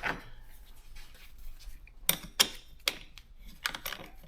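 Scattered sharp metallic clicks of a hand tool, such as a wrench or ratchet, working on a car battery's negative terminal to loosen it. The clicks start about halfway in, and a quicker run of them comes near the end.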